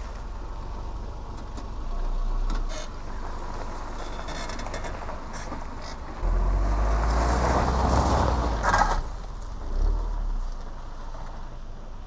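Subaru Forester creeping down a steep dirt track, its engine a low rumble that swells twice, loudest about six to nine seconds in. A few sharp clicks and knocks come from the tyres and body over the rough ground.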